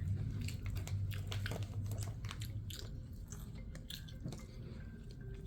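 A person chewing a mouthful of burrito close to the microphone: irregular wet smacks and mouth clicks.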